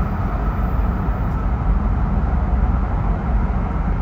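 Steady low rumble and rushing noise inside the cabin of a Joetsu Shinkansen bullet train running along the line.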